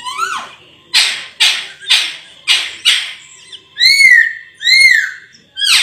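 Raja perling (Sulawesi myna) singing loudly. A rising whistle opens it, followed by about five harsh, rasping notes roughly twice a second, then two arched, clear whistled notes and a quick downward sweep at the end.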